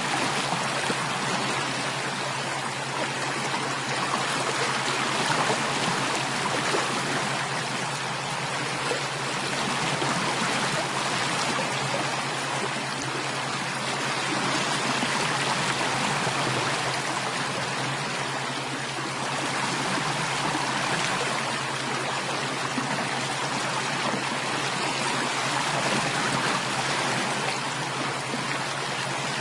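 Stream water running steadily, an even, unbroken rush and trickle.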